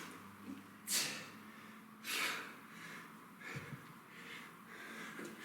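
A man breathing hard under exertion during a kettlebell set, with sharp forceful exhales about one second and two seconds in and lighter breaths between.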